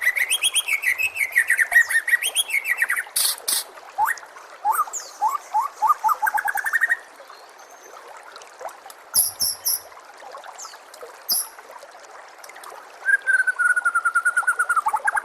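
White-rumped shama singing: phrases of rapidly repeated whistled notes with high chattering trills. The song runs loud for about the first seven seconds, breaks into a few short high calls, and resumes with a repeated-note phrase near the end.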